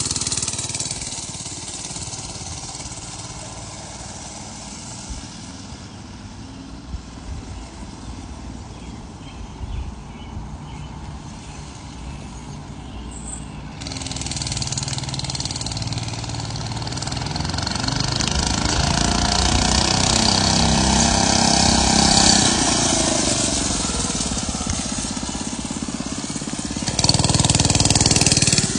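Oryxearth 105cc mini bike engine running hard on a top speed run. It grows fainter over the first dozen seconds, then louder again from about halfway, its pitch rising and falling as it speeds up and eases off, and it is loudest near the end.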